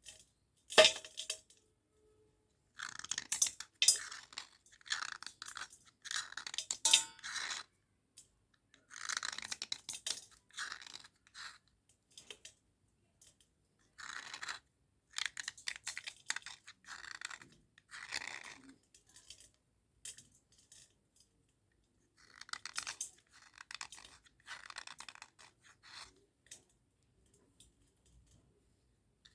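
Dry cubical slate pencils being cleaned by hand, making gritty, scratchy crunching strokes in short bursts with silent pauses between them, and a sharp click about a second in.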